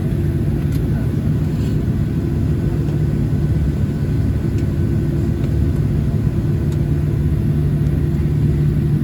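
Steady low rumble and hum inside the cabin of a Boeing 737-700 taxiing in after landing, its CFM56 engines at idle, with a few faint clicks.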